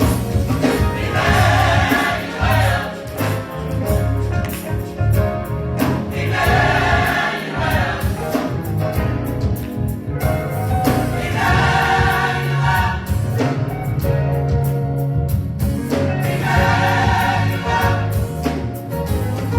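Gospel choir singing a Christmas song with instrumental accompaniment. The choir's phrases swell in roughly every five seconds over a continuous bass line.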